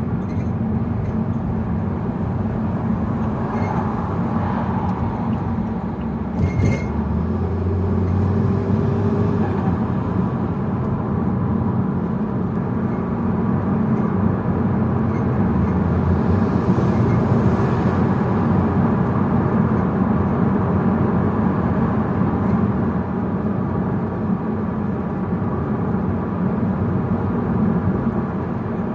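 Saab 9-5 2.0t turbocharged four-cylinder engine, fitted with an open air filter, running steadily under light load while cruising, with road noise. A brief sharp sound about six and a half seconds in.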